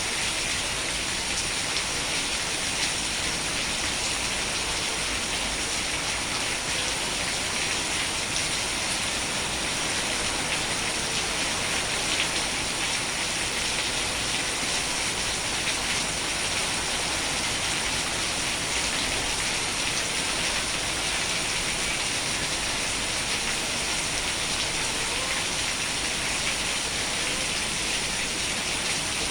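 Steady heavy rain falling, a dense even hiss of drops with fine pattering ticks on hard surfaces.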